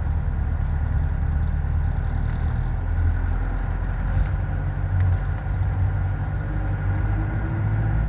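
Steady low rumble of a moving vehicle, its engine and road noise running evenly throughout.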